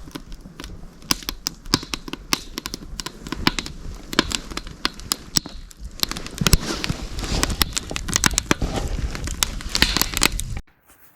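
Wood fire crackling, with many irregular sharp pops and snaps; the sound cuts off suddenly near the end.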